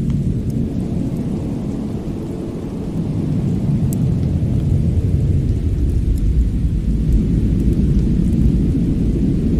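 Winter fireplace ambience: a steady, deep rumble like wind or fire roar, dipping slightly a couple of seconds in, with a few faint crackles from the fire.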